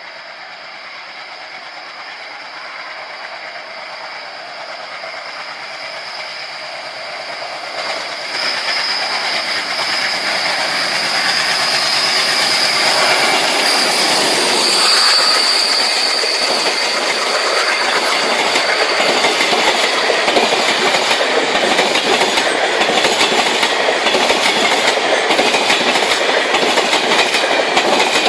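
Indian Railways train approaching, growing louder over the first dozen seconds, with a high whine around the middle. Its wheels then clatter steadily and quickly over the rail joints as the coaches go by.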